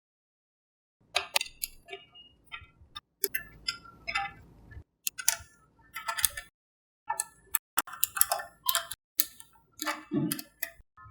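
Small magnetic balls clicking as they snap together, in irregular sharp taps and short rattly clusters that start about a second in.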